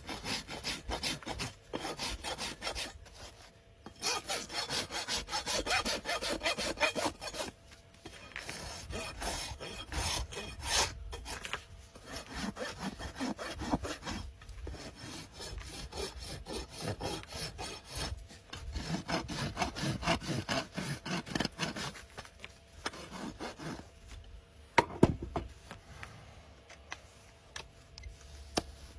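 Farrier's rasp filing a horse's hoof in runs of quick back-and-forth scraping strokes, broken by short pauses, with one sharp knock about 25 seconds in.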